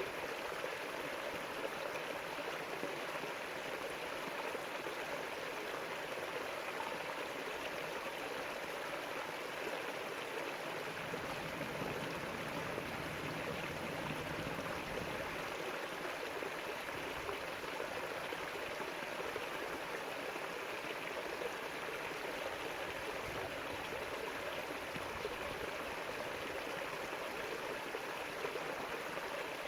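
River water flowing over rocks: a steady rushing and babbling with no breaks.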